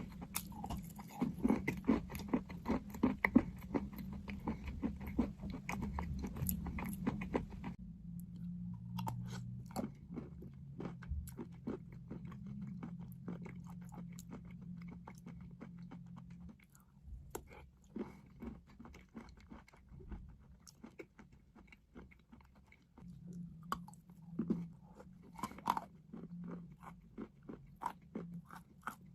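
Crunchy chalk being bitten and chewed: dense crackling crunches for the first several seconds, then sparser crunches.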